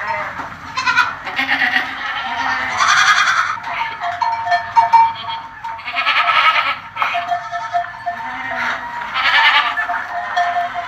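Goats bleating: a run of repeated wavering calls, several of them high-pitched, one after another.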